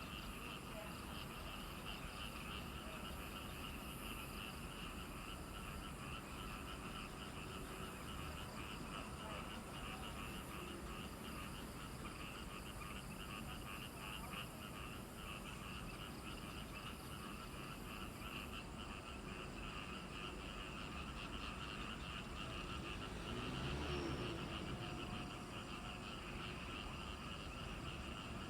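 A chorus of frogs calling with dense, rapid high-pitched pulsing that keeps up steadily throughout. A brief louder low rumble rises and fades near the end.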